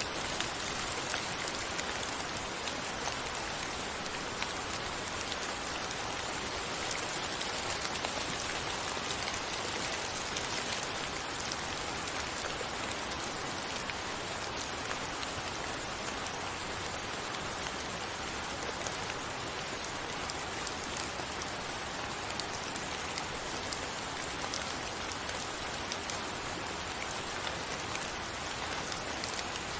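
Steady rainfall: a dense, even hiss of rain with many small individual drop ticks scattered through it.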